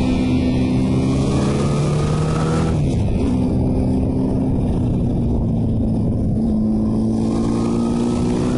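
Motorcycle engine under acceleration: its pitch climbs for about three seconds, drops sharply at an upshift, then holds and begins climbing again, over a steady rush of noise.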